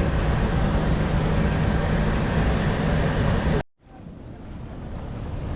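Steady rush of the Rhine Falls' water with a low, steady engine hum, as from a tour boat. The sound cuts off suddenly a little past halfway, then fades back in.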